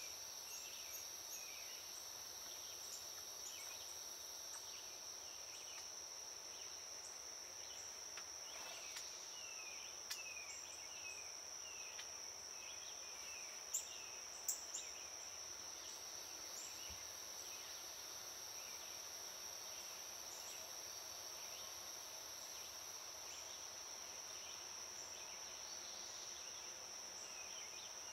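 Insects in a steady high-pitched, cricket-like trill, with a string of short falling chirps over it. Two sharp clicks come about halfway through.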